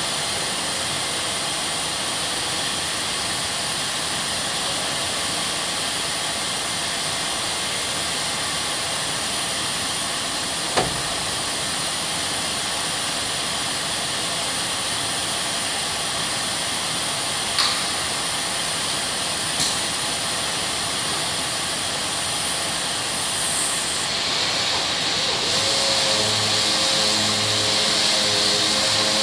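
Power sander running steadily on body filler during dry sanding: a hissing noise with a thin high whine, broken by a few sharp clicks. About 24 seconds in the whine stops, and a louder hiss with a low pulsing hum takes over.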